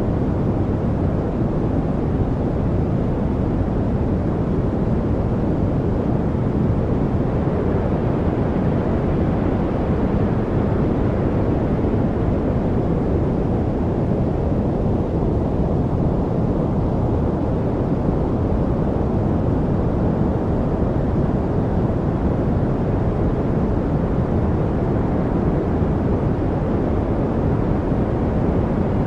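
Steady masking noise: a deep, even rush with most of its weight low and little treble, its brightness swelling and fading slowly.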